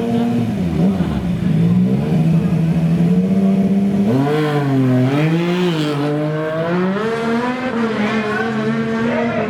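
Superbike engines of the under-900cc class running at a drag strip. They hold a low, steady note at first, then are revved up and down several times from about four seconds in.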